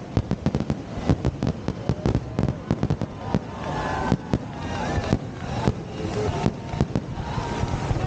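Fireworks display: a dense run of booms and crackling reports, several a second, with no let-up.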